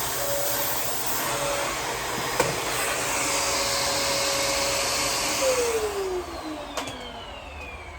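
Sanitaire upright vacuum cleaner running steadily, then switched off about five and a half seconds in, its motor whine falling in pitch as it spins down.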